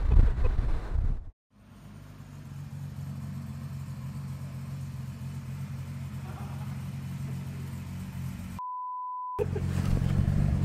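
Jaguar E-Type's fuel-injected straight-six engine idling steadily, after a second of louder on-the-road driving noise that cuts off abruptly. Near the end a plain beep tone, lasting under a second and dubbed over all other sound like a censor bleep, interrupts the idle, which then carries on.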